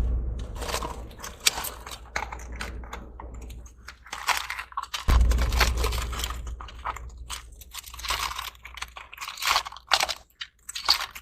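Irregular crunching, scraping and clicking of shells and rocks being handled while a crab is coaxed out of a rock crevice. A low rumble comes in at the start and again about five seconds in.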